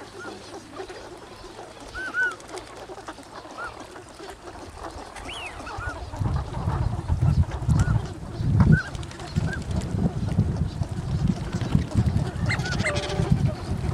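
Waterfowl at a pond giving scattered short honking calls. About halfway through, a low rumble comes in under the calls and stays.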